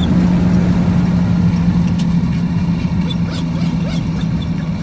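Car driving: a steady engine and road drone with a low hum that drops slightly in pitch about halfway through, and a few faint ticks.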